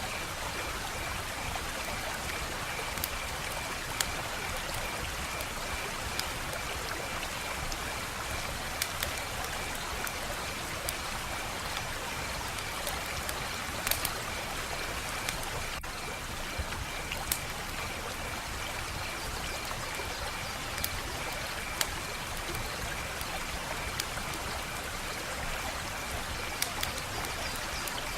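Wood fire crackling, a steady hiss with irregular sharp pops every second or two.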